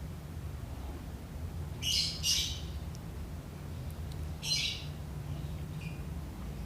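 A bird calls in short, harsh squawks, twice loudly, about two seconds in and again past the middle, then once faintly near the end, over a steady low hum.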